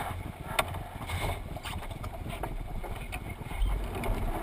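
Water rushing and splashing along the hull of a Thistle sailing dinghy under way, with wind buffeting the microphone as a low rumble. A few sharp knocks, the clearest about half a second in.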